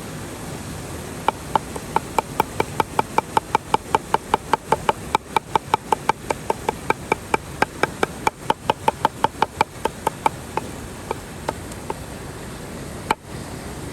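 A knife chopping rapidly on a wooden board, about four even strokes a second for roughly nine seconds, then a few slower strokes, over a steady rush of river water.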